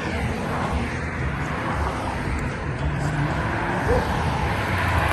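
Car engine running at a street car meet, its low note shifting up and down over a steady rush of noise.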